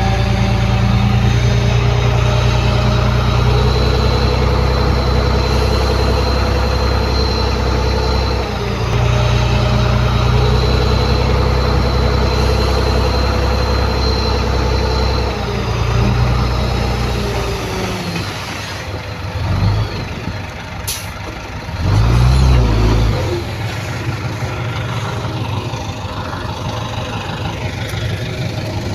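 Heavy diesel earthmoving machinery working: a deep engine running hard with a thin high whine over it for most of the stretch, then easing off, with two short revs and a sharp click near the end.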